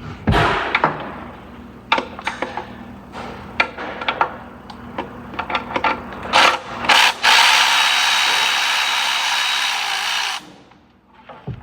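Metal tool clinks and knocks, then a power tool running steadily for about three seconds before cutting off, working on a 10 mm bolt that holds the ABS pump unit in.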